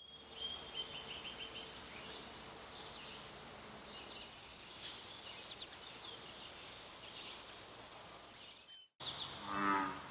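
Songbirds calling and singing in woodland, with a quick run of high notes about half a second in and scattered chirps after it. Near the end, after a brief break, a short, loud, low animal call sounds once.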